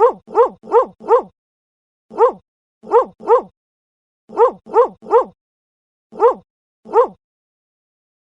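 Dog barking in short, alike barks with silence between: four quick barks at the start, then a single bark, a pair, three in a row, and two more singles, about a dozen in all.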